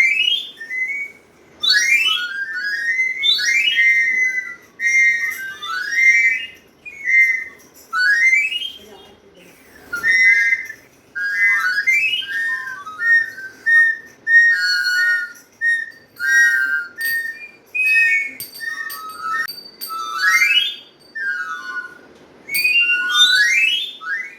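A small toy wind instrument, called a mouth organ, blown over and over in short, high, whistling notes. Many of the notes slide upward in pitch.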